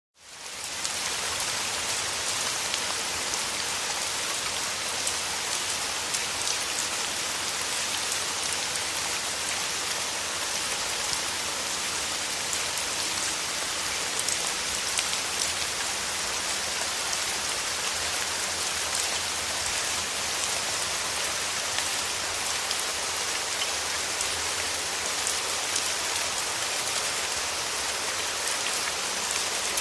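Wood fire burning in a fireplace: a steady dense hiss of crackling with many small sharp pops scattered through it, fading in over the first second.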